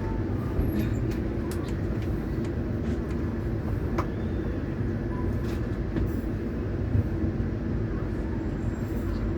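A long-distance express passenger train rolling into a station: a steady low rumble of wheels on rails and running coaches, with a few sharp clicks.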